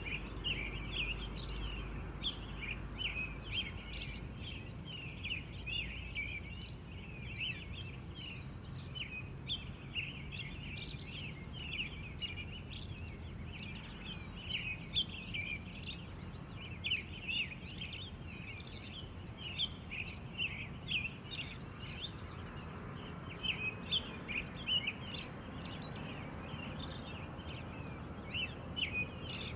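Morning chorus of many wild birds chirping and singing over one another without a break, with a steady high insect trill, likely crickets, running underneath. A low, even background rumble lies beneath both.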